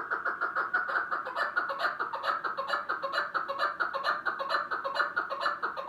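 Chukar partridge calling: a rapid, unbroken series of clucking notes, many per second.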